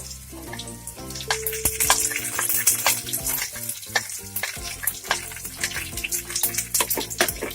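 Chopped onion and green chilies frying in hot oil in a frying pan: a dense, steady sizzle with crackling pops, as the onion begins to soften.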